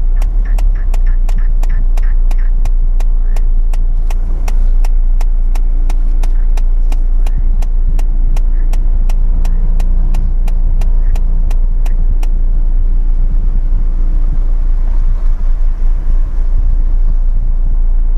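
A small car engine runs under load as it tows a pickup uphill on a strap, heard as a steady low rumble. Over it, the Mitsubishi L200's air conditioning clicks evenly, about three times a second, until about twelve seconds in, when the clicking stops.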